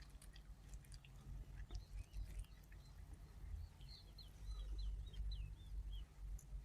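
Faint small clicks of a kitten chewing catnip, over a low rumble. About halfway through, a bird chirps a quick run of eight or so short high notes.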